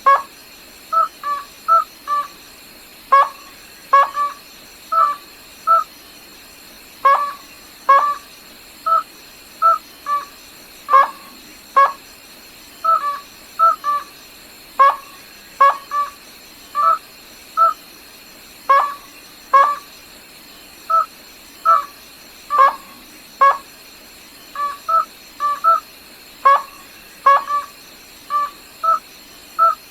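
A rail (Vietnamese gà nước họng trắng) calling: short, sharp, clear notes repeated about once a second, often in quick twos or threes, over a faint steady high hum.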